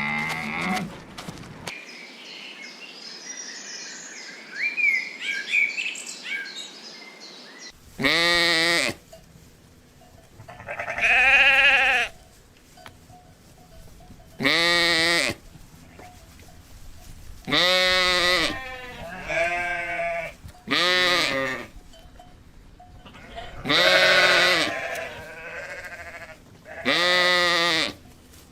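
Lamb or kid-type bleating: a sheep or goat calls about eight times in the second two-thirds of the stretch, each bleat about a second long with a quavering tremble. Before that, after a call that fades in the first second or so, there are faint high chirping squeaks for a few seconds.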